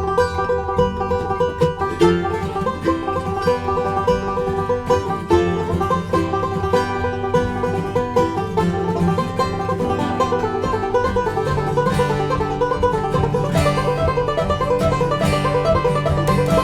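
Bluegrass band playing an instrumental break, with fast banjo picking over guitar and upright bass.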